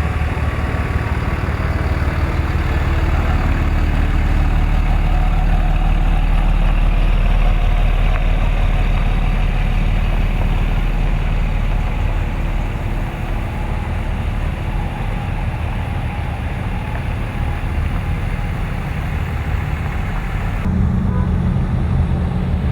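Several Ram pickup trucks' engines running together in a steady low rumble. The sound changes abruptly near the end.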